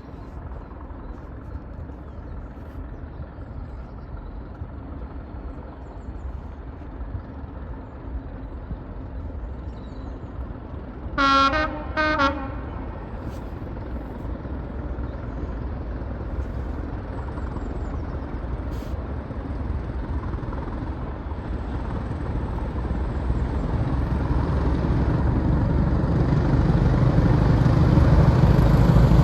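Train approaching, its low rumble growing steadily louder, with two short blasts of a train horn about eleven seconds in.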